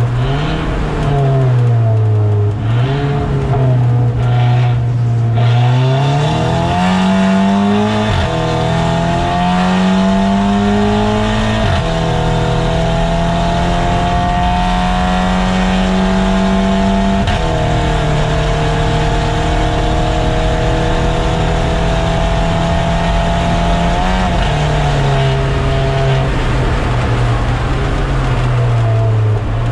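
2008 Audi TT race car's engine at full throttle on track, revving up through the gears: the pitch climbs and drops sharply at upshifts about eight and twelve seconds in and again near seventeen seconds, holds high and steady between them, then falls away over the last few seconds as the car slows.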